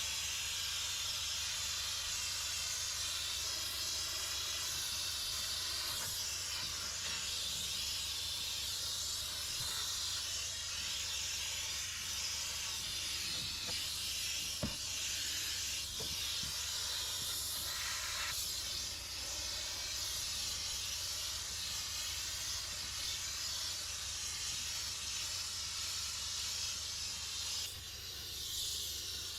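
Steam cleaner nozzle jetting steam in a steady hiss, dipping briefly near the end.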